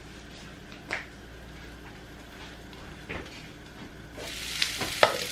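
Bacon, peppers and onions frying in olive oil in a pan, a quiet steady sizzle with a couple of sharp clicks. About four seconds in the sizzle gets much louder, with more clicks, as the lid comes off the pan.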